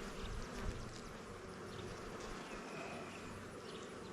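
Honey bees buzzing around an open hive, a steady hum from many agitated bees flying close to the microphone.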